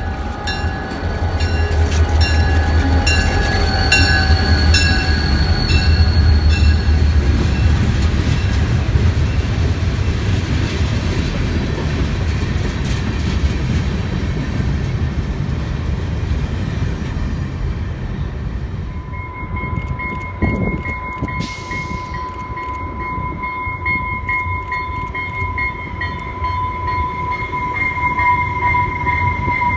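A diesel-hauled train rolling by with heavy engine rumble, steady horn-like tones and rhythmic clicking over the first several seconds. The sound then eases off, and from about two-thirds of the way through a steady high tone holds to the end.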